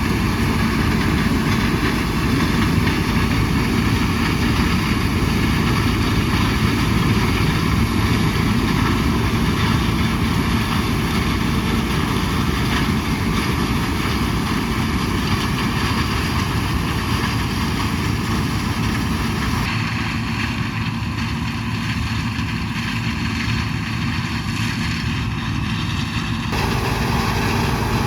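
John Deere 6600 combine running steadily under harvest load. Its sound changes from about twenty seconds in, when the higher part of the noise thins out, and returns to full just before the end.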